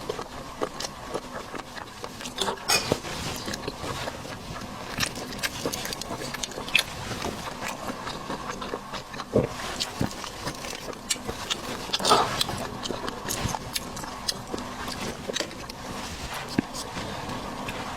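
Close-miked chewing and slurping of seafood: a steady run of short wet smacks and clicks, with a sharper crunch or slurp about twelve seconds in.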